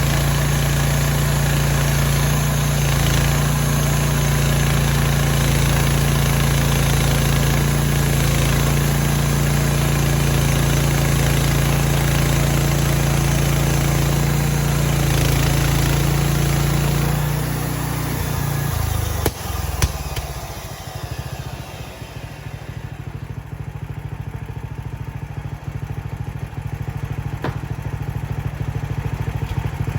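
Gas engine of a Mechmaxx bandsaw sawmill running steadily at speed, then throttled down about 17 seconds in. A sharp knock comes a couple of seconds later, and the engine carries on at a lower, idle-like speed that picks up slightly near the end.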